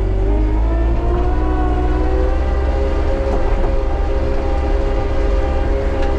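Bobcat T77 compact track loader running under load: steady diesel drone with a hydraulic whine that rises in pitch about a second in and then holds steady.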